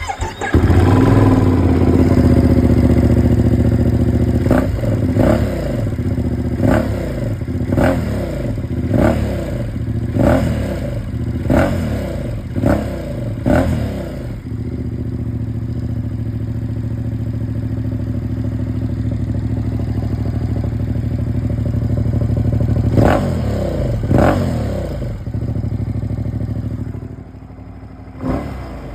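Ducati Panigale V2's 890 cc V-twin starting and idling, then blipped about once a second for some ten seconds, settling back to a steady idle, and revved twice more near the end.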